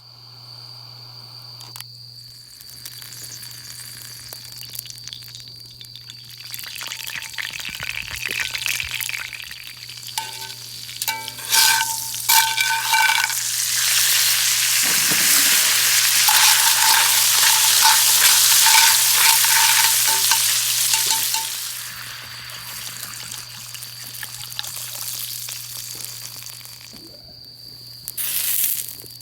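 Food sizzling in a pan over a wood fire. The sizzle swells to a loud, hissing peak for several seconds in the middle, with a few short ringing clinks just before. A steady high-pitched tone runs beneath.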